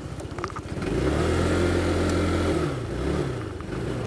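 Motorcycle engine idling with a fast, even beat. About a second in, a louder engine note with a steady pitch swells over it for about two seconds, then drops in pitch and fades.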